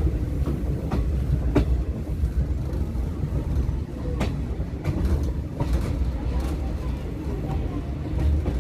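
Train running along the track: a steady low rumble with sharp, irregularly spaced clacks of the wheels over rail joints.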